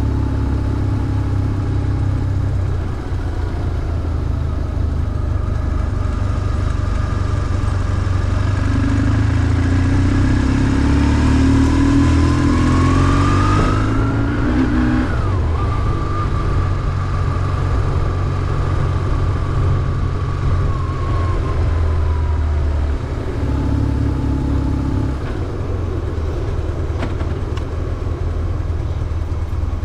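BMW R1150GS's air-cooled boxer twin engine running under way. Between about 9 and 15 seconds in, it pulls up through the revs with a rising whine, drops sharply at a gear change, then holds steady and slowly eases off.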